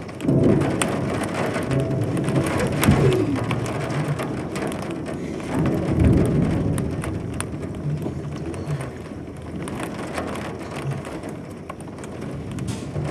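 Rain falling, with many scattered ticks of drops over a steady hiss, and a few low rumbling swells.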